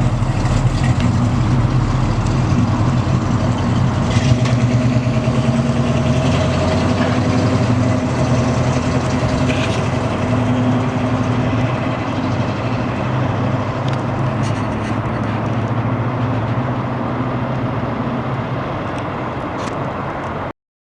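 A 1971 Chevrolet C10 pickup's engine idling steadily; the sound cuts off abruptly near the end.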